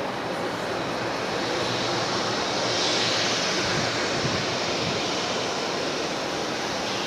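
Boeing 757-300's jet engines running as the airliner taxis, a steady rushing hiss and whine that swells to its loudest about three seconds in and then eases.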